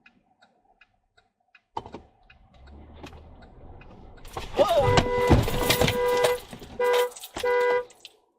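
Car horn honking: one long blast of more than a second, then two short honks, over the noise of traffic. A sudden loud burst of noise comes just before the first honk.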